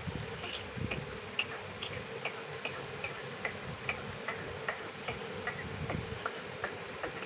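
Pet ringneck parrot making a regular series of short, sharp clicks, about two to three a second, over a faint steady hum.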